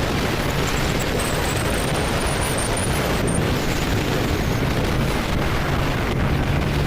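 Riding a motorcycle: wind rushing and buffeting over the microphone, with the engine's steady low drone beneath.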